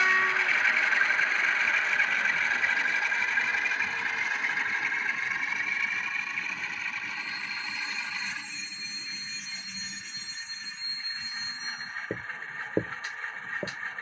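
Diesel locomotive sounds from the DCC sound decoder of a Graham Farish N gauge Class 47, played through the model's small speaker. A horn note cuts off at the start, then a hissy engine sound slowly fades and changes about two-thirds of the way in, with a few sharp clicks near the end.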